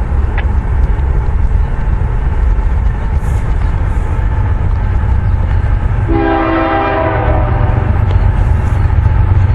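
Freight train led by a BNSF GE ES44AC locomotive passing, its diesel engine and the cars making a loud, steady low rumble. About six seconds in, the locomotive's horn sounds one blast of about a second and a half, a chord of several notes.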